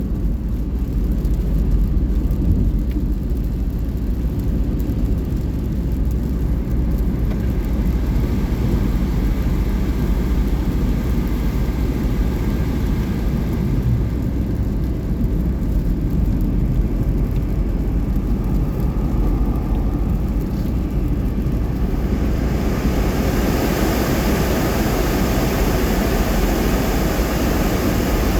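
Steady road and engine rumble inside a moving car's cabin. A hiss rises about 22 seconds in and stays loud through the end.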